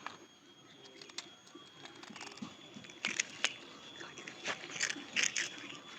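A cat crunching and chewing dry onion crackers, with sharp crunches in clusters about three seconds in and again near the end.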